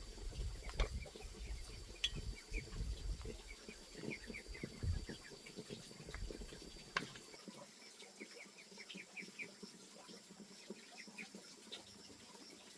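Rural outdoor ambience: a steady high insect drone, with rows of short chirps from small birds or chicks. A few knocks and handling thumps come in the first half, then stop.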